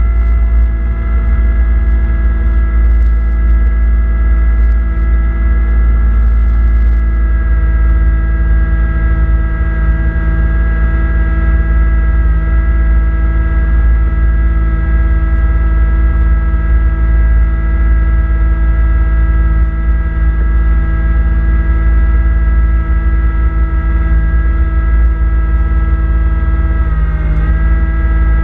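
Kubota B2650 compact tractor's three-cylinder diesel engine running steadily with its front-mount snowblower, a loud low rumble with a steady whine above it; the pitch dips briefly about a second before the end.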